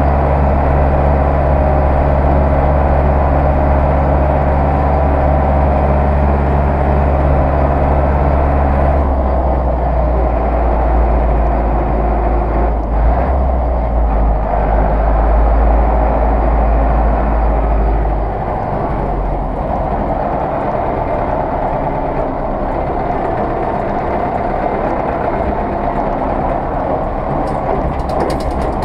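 Zetor 6911 tractor's diesel engine running steadily. Its note changes about nine seconds in, and the deep low rumble eases off around eighteen seconds.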